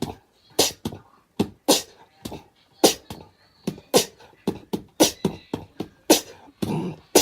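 An irregular run of sharp taps, about two or three a second.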